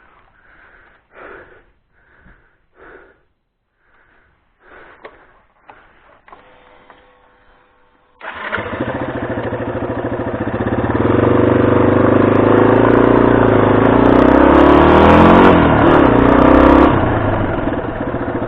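Dual-sport motorcycle engine starting about eight seconds in, after several seconds of faint scattered rustling, then running and revved up for several seconds before settling back toward idle.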